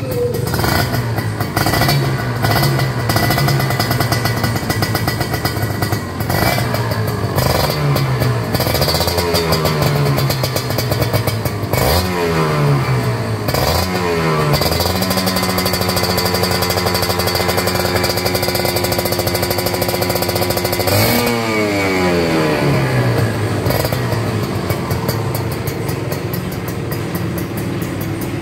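Kawasaki Ninja 150's single-cylinder two-stroke engine through an aftermarket racing exhaust, revved repeatedly. Several quick blips rise and fall, then it holds high revs for about six seconds before dropping back to a low idle.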